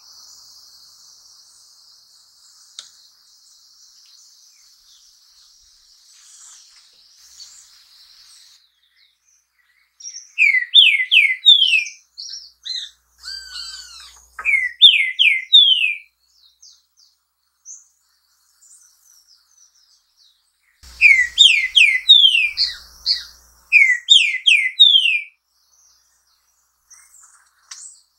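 Green-winged saltator singing: four short phrases, each of three or four clear whistled notes that slide downward, with pauses between them. For the first ten seconds there is no song, only a faint steady high hiss.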